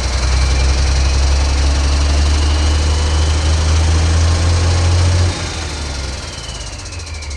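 Ford D-series 1314 truck's turbocharged engine running at raised revs with a steady low drone. The revs drop back about five seconds in, and a turbo whistle falls in pitch as it winds down.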